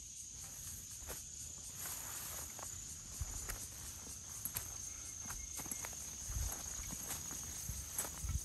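Insects calling in a steady, high, unbroken drone, with scattered rustles and light knocks of movement through undergrowth.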